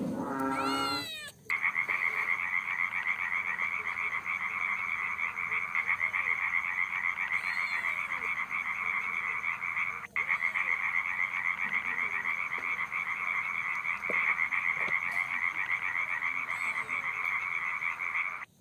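A frog calling in a continuous, rapidly pulsing trill, with a brief break about halfway through. It is preceded by a short wavering cry in the first second.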